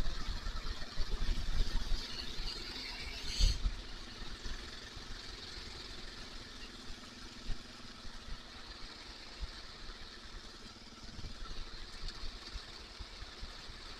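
Kawasaki KLR650 single-cylinder motorcycle under way, with wind noise over the helmet microphone. The rumble and wind are heavy for the first few seconds and end in a sharp thump about three and a half seconds in. After that the engine runs quieter and steadier.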